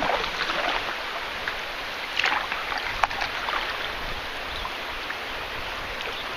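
River water flowing and splashing around a canoe, with a sharper splash about two seconds in and a short click about a second later.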